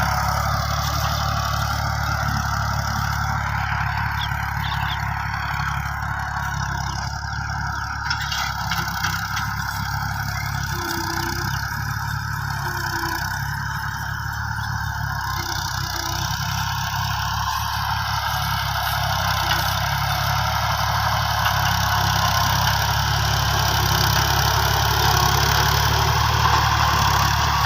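Tractor engine running steadily, a constant low drone with no change in speed.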